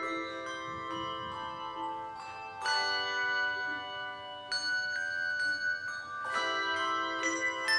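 Handbell choir playing a slow tune: chords of several bells struck together every couple of seconds, each left ringing.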